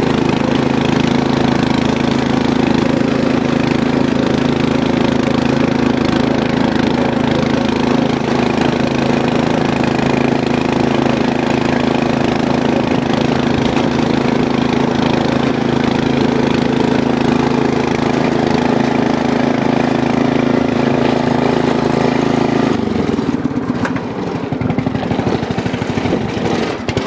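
Yard Machines 13.5 hp riding lawn mower engine running loud and steady after a cold start. About 23 seconds in it slows to a rough, uneven low speed, close to stalling.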